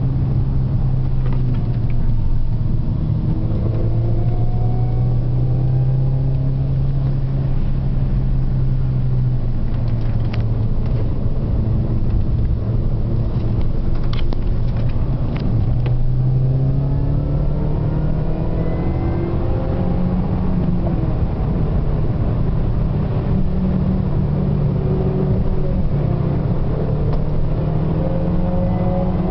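Car engine under hard acceleration, heard from on board: a steady low drone with its note rising again and again as it pulls up through the revs, over road noise.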